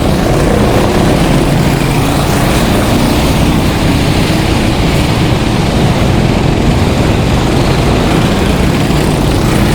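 Several go-kart engines running together as the karts race past in a close pack, a steady loud mix of engine noise.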